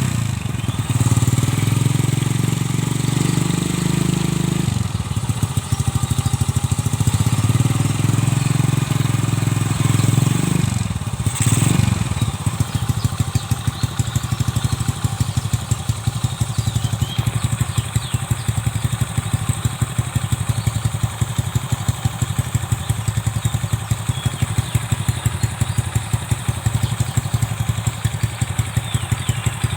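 Honda Grand 100cc single-cylinder four-stroke motorcycle engine, fitted with a 30 mm carburettor and an SR aftermarket exhaust. It is held at raised revs twice in the first eleven seconds, dropping briefly between. It then settles into an idle with an even, regular beat.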